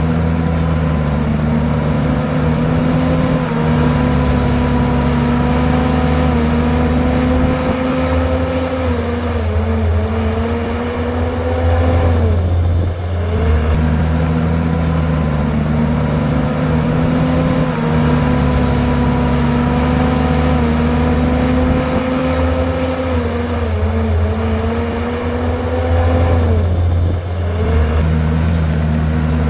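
Komatsu bulldozer's diesel engine running under load. Its pitch sags slowly, then drops sharply and climbs back twice, about halfway and near the end.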